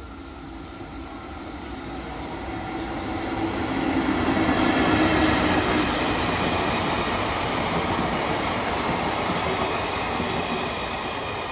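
Electric train passing close by: its running noise swells to a peak about four to six seconds in and then slowly falls away.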